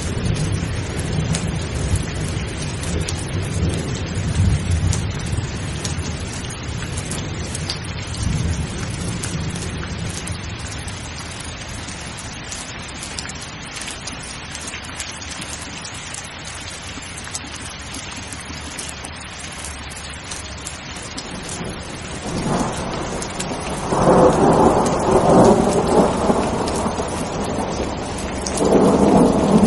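Steady heavy rain with thunder. A low rolling rumble fades out over the first several seconds, then louder thunder swells up from about two-thirds of the way in, with another loud peal starting just before the end.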